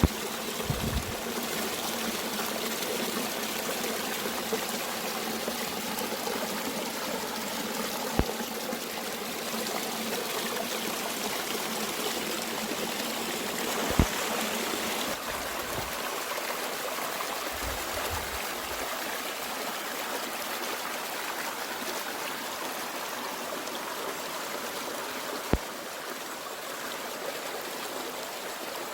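Mountain stream flowing and trickling steadily, with a few brief sharp clicks.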